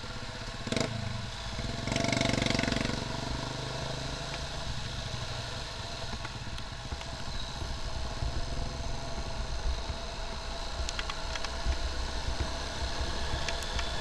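Motorcycle engine running steadily while riding on rain-wet roads, with a brief louder rush about two seconds in.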